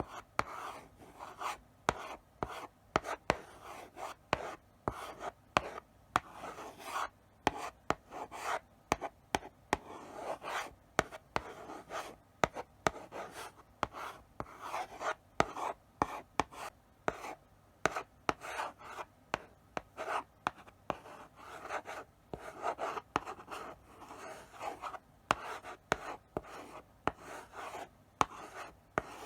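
Chalk writing slowly on a blackboard: short scratching strokes, each starting with a sharp tap as the chalk meets the board, several a second, with brief pauses between words.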